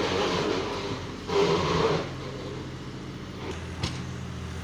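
Loaded tractor's diesel engine working in two rough surges, then settling into a steady low run about two seconds in; a single sharp click near the end.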